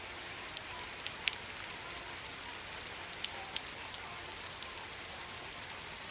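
Steady rain falling: an even hiss with scattered sharper drip ticks.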